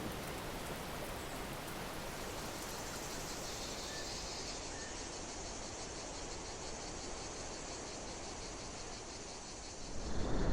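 Outdoor nature ambience: a steady hiss with insects trilling high up in a fast, even pulse. Near the end a louder low rumble comes in.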